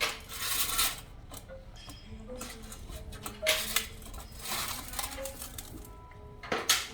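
Four short bouts of clinking and scraping against a food dish, over background music.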